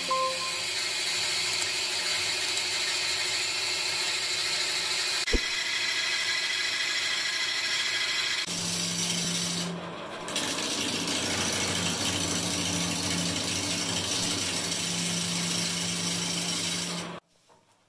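Sawmill machinery running steadily, with a sharp click about five seconds in and a low hum joining about halfway through. The sound cuts off abruptly near the end.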